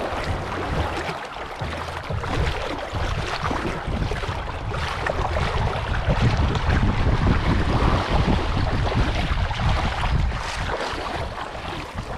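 Wind buffeting the microphone in an uneven low rumble, over a steady wash of water.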